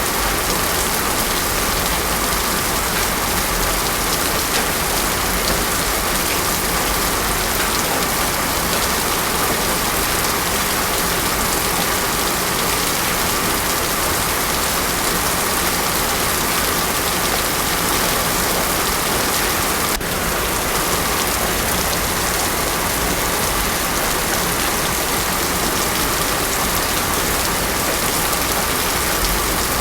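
Heavy rain falling steadily on a road surface, an even hiss with no thunder.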